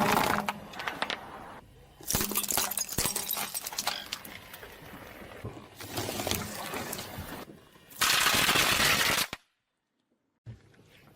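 Objects crunching, cracking and snapping as a car's tyre rolls over and crushes them, in several separate bursts of dense crackling. About eight seconds in a loud, dense noise lasts a little over a second and cuts off suddenly.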